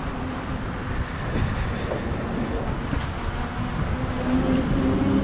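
Street traffic with wind rumble on the microphone. A steady engine hum fades out about a second in and comes back after about four seconds.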